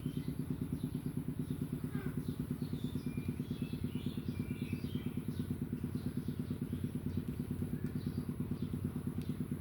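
A small engine running steadily at idle, with an even, rapid low throb.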